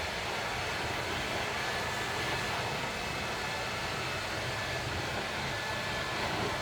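Ryobi 2000 psi pressure washer running steadily: an even rushing noise with a faint high whine held throughout.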